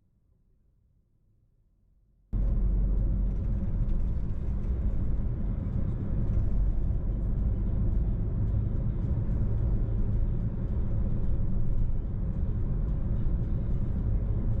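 A car driving along a road: steady rumble of road and engine noise. It starts abruptly about two seconds in, after near silence.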